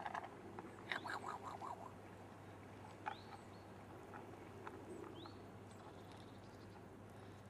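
Faint birds calling: a quick run of short calls about a second in, then short rising calls twice more, over a faint steady low hum.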